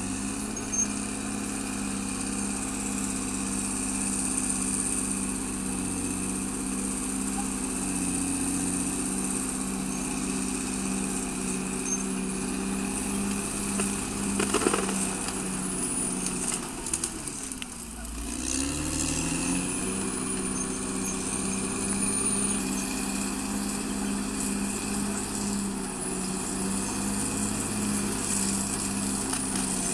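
CAT D6R XL bulldozer's diesel engine running steadily under working load, with a thin high whine above it. A little past halfway, the engine note sags sharply in pitch and then climbs back.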